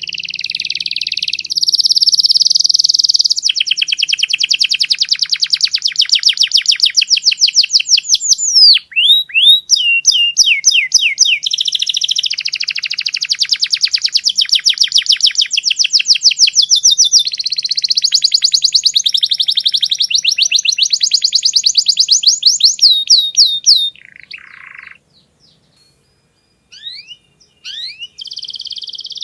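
Domestic canary singing a loud, long song made of fast trills, each phrase a rapid run of the same repeated note before switching to the next. The song breaks off about 24 seconds in, leaving a few thin chirps, and starts again near the end.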